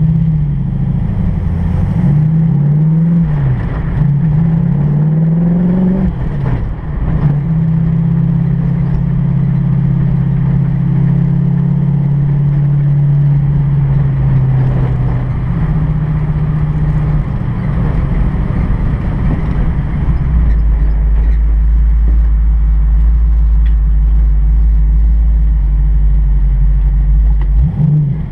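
1965 Mustang GT350R pro-touring car's V8, heard from inside the cabin, pulling up through the gears in the first few seconds, its pitch rising and dropping at each shift, then cruising steadily. About two-thirds in it settles to a low idle, and it revs up again near the end.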